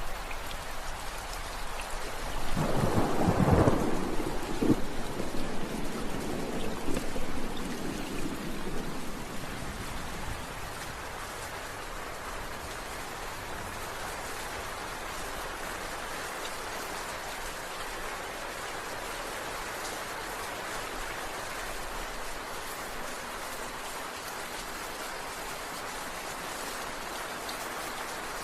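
Steady heavy rain that starts abruptly, with a long roll of thunder about two seconds in that rumbles on and dies away by about ten seconds; after that, rain alone.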